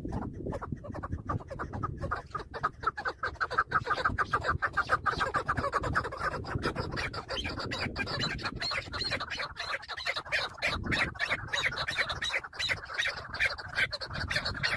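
Chukar partridge calling: a fast, steady run of repeated clucking 'chuk' notes.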